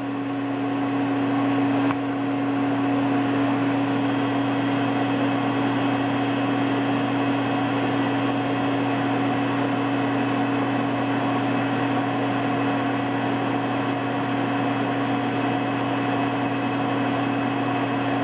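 Hurco KM3-P CNC vertical knee mill running: a steady machine hum with several held tones. It builds up over the first couple of seconds and then holds level.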